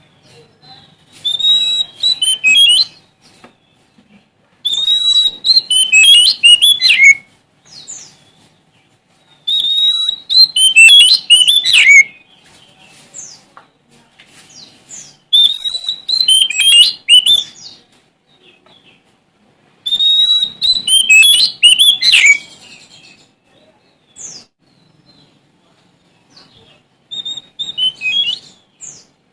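Oriental magpie-robin (Sumatran kacer) singing: five loud, rich whistled phrases of two or so seconds each, much alike, with a shorter phrase near the end. Quieter short calls fill the pauses between phrases.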